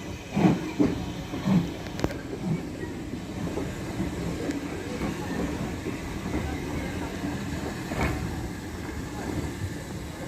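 A train running on the rails: a steady low rumble, with a few short louder knocks in the first couple of seconds and another about eight seconds in.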